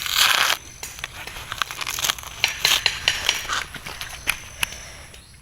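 Dry rustling and crackling, as of dry material being handled or crushed: a brief rush of noise at the start, then a run of sharp crackles and clicks that thins out near the end.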